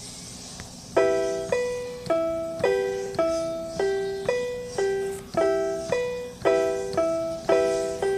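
Electronic keyboard with a piano sound playing an intro of broken chords, notes struck about twice a second and each fading away, starting about a second in over a faint low hum.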